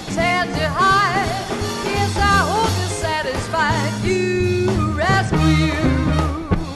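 Live swing band playing: melody lines with heavy vibrato over upright bass and drums, with the horn section of saxophones, trumpet and trombone.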